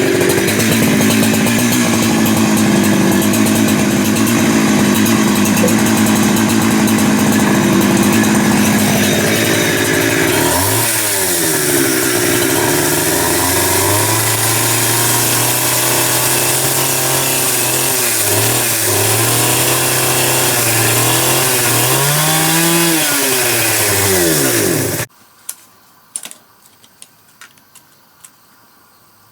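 A power tool's motor running loud and steady at high speed. From about ten seconds in, its pitch dips and climbs again several times as it bites into the wood. It stops abruptly about 25 seconds in, leaving only a few faint clicks.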